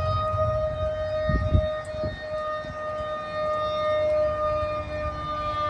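Outdoor tornado warning siren sounding a steady, held tone, signalling a tornado warning. A low thump comes about a second and a half in.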